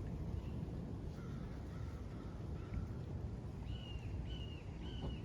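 A bird calling in quick series of short, even calls: a lower-pitched run of about four from a second in, then a higher, louder run of about three from just past halfway. A steady low rumble lies under it.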